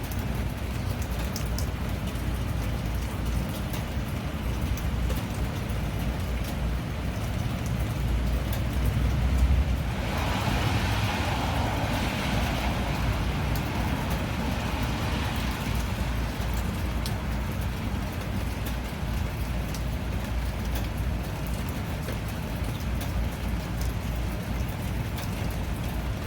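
Steady rain falling, with a low swell building to a peak about ten seconds in, followed by a louder hissing wash that fades over several seconds.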